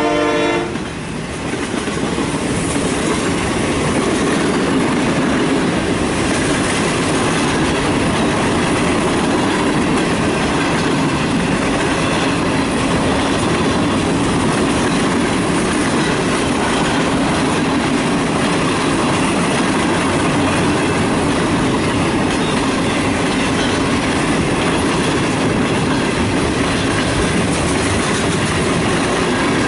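A diesel locomotive horn chord cuts off under a second in. Then a long CSX manifest freight's cars roll past at speed: a steady noise of steel wheels on rail with a clickety-clack.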